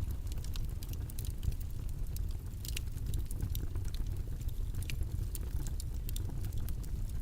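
Steady low rumbling background noise, with scattered faint clicks and ticks throughout.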